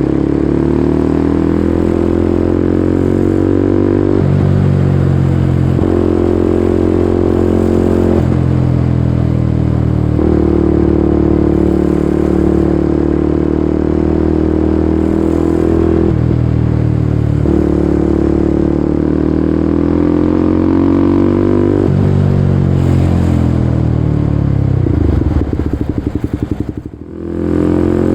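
Kawasaki Ninja 250SL single-cylinder engine running loud through an aftermarket KEA Speed NA 1 exhaust, its note changing in steps every few seconds as throttle and gears change. Near the end the revs fall away into a rapid low pulsing, the sound dips sharply for a moment, then picks up again.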